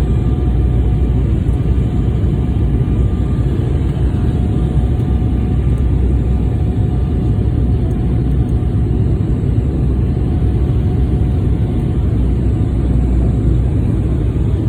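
Steady cabin noise of a KLM Embraer E175 in flight: a loud, even rumble of the jet engines and airflow, with two faint steady whine tones over it.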